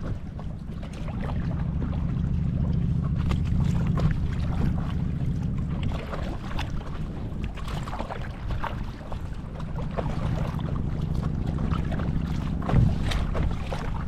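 Wind rumbling on the microphone over small irregular splashes of choppy lake water around a paddle board, with one louder knock near the end.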